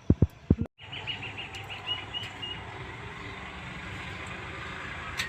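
A few low knocks, then after a sudden cut, outdoor background noise with a bird giving a quick run of about eight high chirps.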